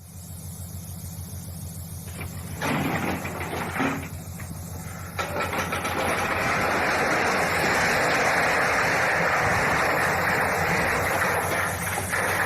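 Heavy machinery's engine running steadily, joined about five seconds in by a loud, rough, continuous noise.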